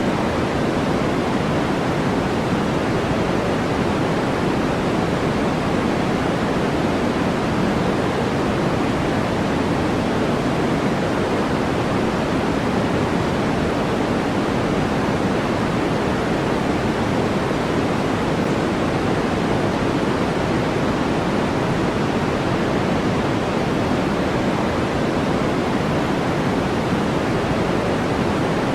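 Steady synthetic white-noise track: an even, unchanging rushing hiss, fuller in the low and middle range than in the highs.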